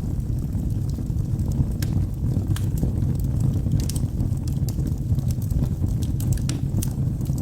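Wood logs burning in a fireplace, crackling with irregular sharp pops and snaps over a steady low rumble of the flames.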